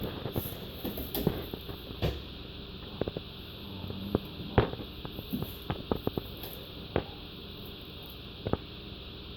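Puppies play-fighting: irregular clicks and soft knocks from paws, claws and bodies scuffling on the floor, with no barking.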